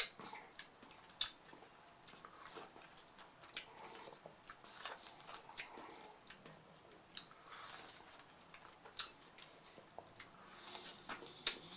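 Close-miked chewing of crisp hard-shell mini beef tacos: irregular crunches and wet mouth sounds, with a handful of sharper cracks scattered through.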